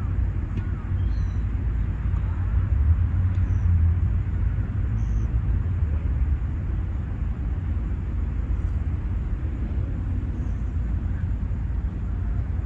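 Outdoor park ambience: a steady low rumble under an even background hiss, with a few faint high chirps in the first few seconds.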